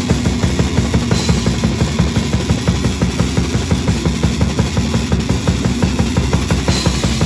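Metal band playing live, with the drum kit to the fore: a fast, steady run of bass-drum strokes under a low, droning band sound.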